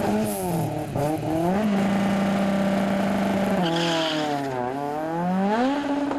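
Drag-racing hatchback's engine revving on the start line, then held at steady high revs for about two seconds. About four seconds in the revs drop as it launches, with a brief tyre squeal, and climb again as it pulls away.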